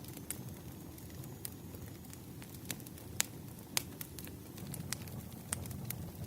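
Wood fire crackling, with irregular sharp pops over a steady low rumble; two pops about three and a half seconds in stand out as the loudest.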